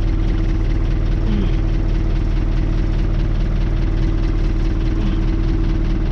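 Renault 651 tractor's diesel engine idling steadily, with an even low rumble.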